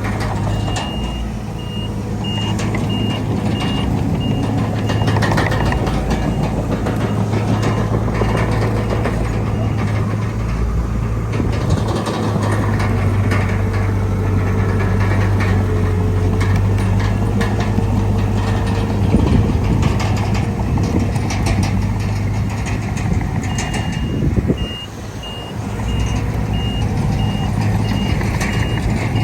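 Heavy diesel earthmoving machine running steadily, with its reversing alarm beeping over it, stopping about ten seconds in and starting again near the end.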